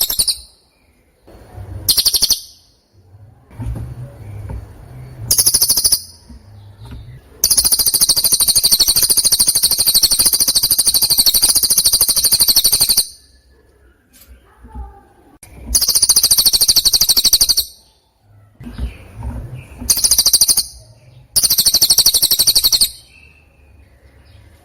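Recorded songbird calls played as a training tape for competition birds. The calls are very high, rapid buzzing trills in repeated bursts of one to five seconds. The longest burst runs about five seconds through the middle, and short quiet gaps fall between the bursts.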